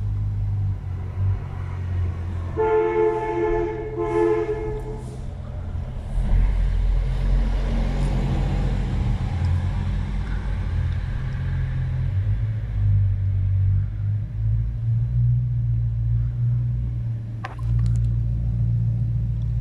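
Deep, steady engine rumble of supercars moving off at low speed, a Bugatti Chiron among them, growing louder about six seconds in. A two-note car horn sounds twice, between about two and a half and five seconds in.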